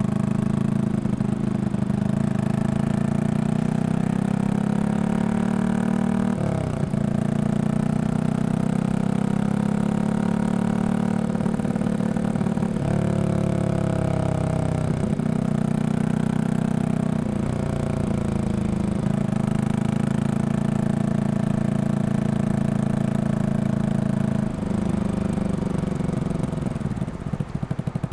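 Yamaha XSR155 single-cylinder engine, bored up to 183cc, running through a Norifumi full exhaust while riding. The engine note rises and drops several times as the revs change, and near the end it falls to a slower, pulsing beat.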